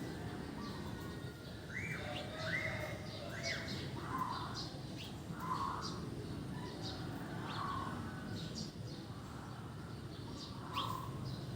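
Birds calling: many short high chirps throughout, three quick arched notes about two seconds in, and a lower call repeated every second or two, over steady background noise.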